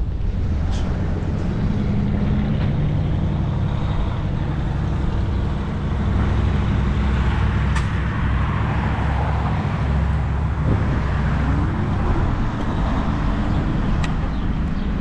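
Steady low rumble of wind on the microphone and fat tyres rolling, from a Cyrusher Kommoda 20-inch fat-tire e-bike being ridden, with a few faint clicks.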